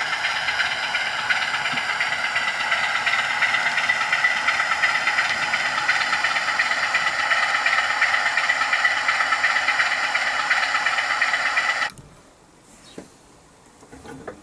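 Digital sound decoder in a Bachmann OO-gauge Class 47 model playing the Class 47's diesel engine sound through the model's small standard speaker as the locomotive runs, steady and thin-sounding. About twelve seconds in the engine sound cuts off abruptly, leaving only faint room noise with a small click.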